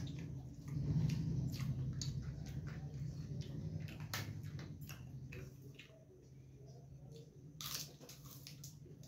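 Close-up chewing and crunching of food eaten by hand, with scattered crackles and a sharp crunch of crisp papad being bitten near the end. A low steady hum sits underneath and fades out past the middle.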